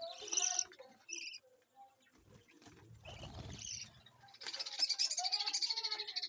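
Budgerigars calling: a few short high chirps, then from about four seconds in a fast, unbroken run of high chattering calls. A low rustling noise comes in between.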